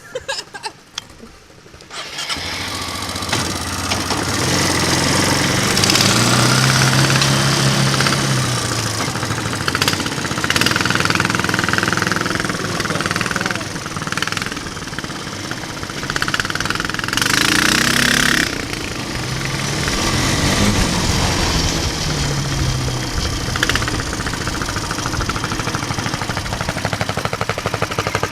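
Single-cylinder 420 cc mini bike engine catching after a few clicks about two seconds in, then running and revving, its pitch rising and falling again and again.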